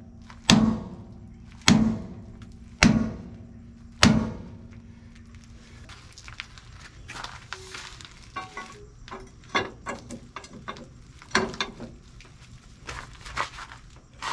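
Heavy hammer striking steel: four hard, ringing blows about a second apart, then lighter scattered clanks and knocks of metal.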